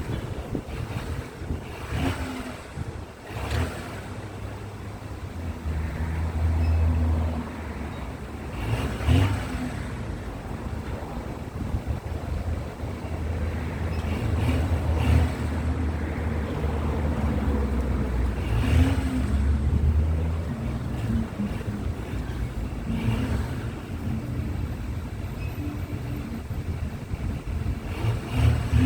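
Volkswagen Amarok diesel engine idling, with a few short throttle blips that briefly raise the revs, and some wind noise on the microphone.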